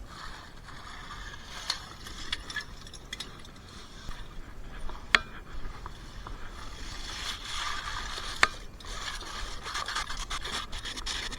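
Chimney sweeping brush being pulled up the flue on a rope, scraping continuously along the flue walls, with a few sharp knocks, the loudest about five and eight and a half seconds in.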